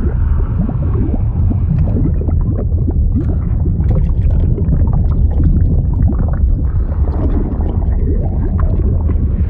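Bubbling liquid sound effect: a steady deep rumble full of quick bubbling gurgles.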